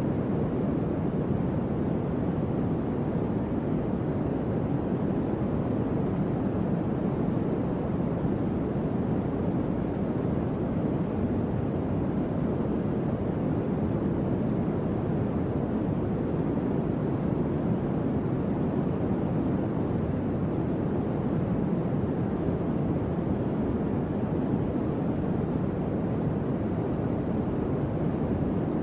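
Electric fan running steadily: an even, low whooshing hum of moving air with no changes.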